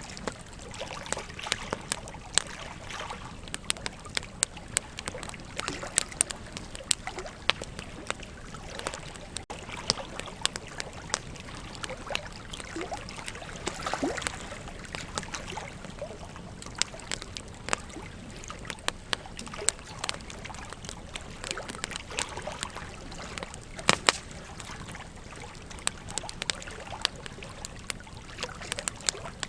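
Wood campfire crackling with irregular sharp pops, over the steady trickle of a river.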